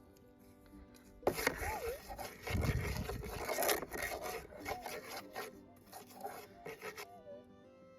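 Dirt being scraped and rubbed while searching for a small metal-detector target, with a few short warbling detector tones over it. The target turns out to be a tiny piece of screen wire.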